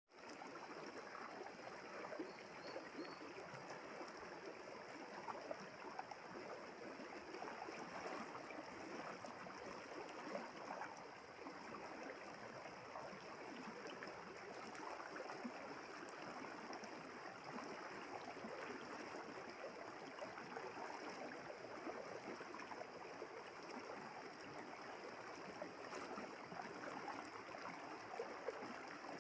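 Village river flowing steadily, a continuous babbling rush of water over stones, with a steady faint high-pitched hiss above it.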